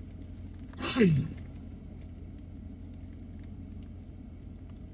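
Steady low hum of an idling car heard inside the cabin, with a man's short grunt about a second in that falls in pitch.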